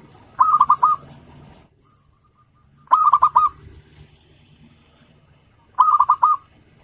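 Zebra dove (perkutut) cooing: three short phrases about two and a half seconds apart, each a quick run of about five notes.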